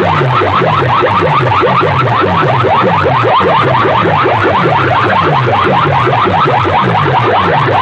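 Loud electronic siren-style alarm effect blasted through a big competition sound system: fast rising sweeps repeat several times a second over a falling bass pulse about twice a second, running without a break.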